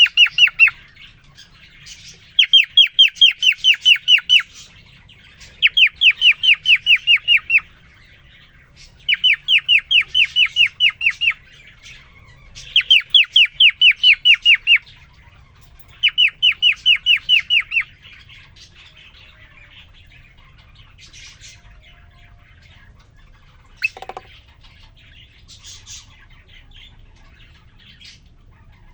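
Male cockatiel singing in repeated bouts, each a quick run of about a dozen falling whistled notes at about six a second, with short pauses between bouts. Later the calls turn softer and scattered, and there is a single sharp tap.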